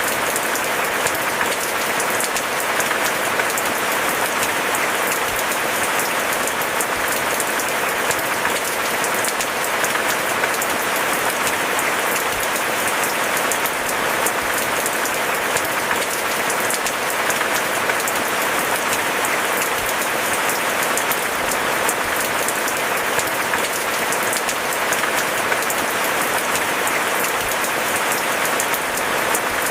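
Steady, dense rainfall: a constant hiss of countless small drops, even throughout.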